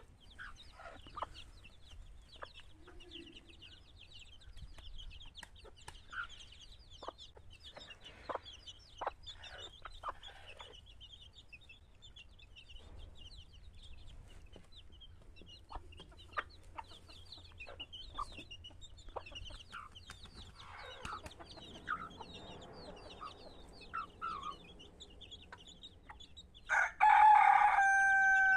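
Chicks peeping continuously, with scattered sharp ticks and chicken clucks while they feed. Near the end a rooster crows loudly once, a held call that falls away at its tail.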